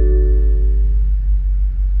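A ringing chord of several tones fades out over about the first second, over a steady low rumble that PANN files under Vehicle and Rumble. In a video about the car, the rumble fits the BMW M8's twin-turbo 4.4 L V8 idling.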